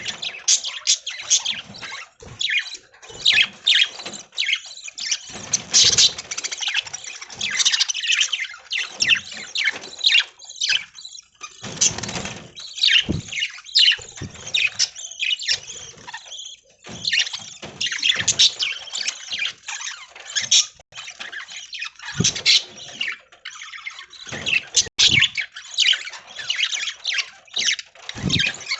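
A flock of budgerigars chattering and chirping without pause, many short calls overlapping.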